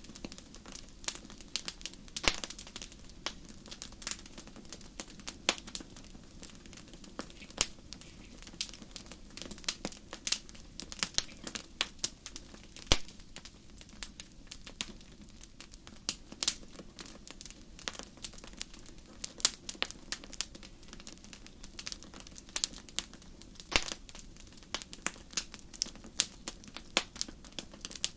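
Wood fire crackling in a fireplace: irregular sharp pops and snaps, several a second, some louder than others, over a low steady hiss of burning.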